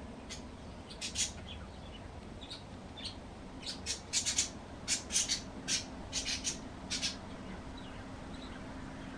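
Small birds chirping: a quick series of short, sharp chirps, thickest in the middle of the stretch, over a faint steady hum.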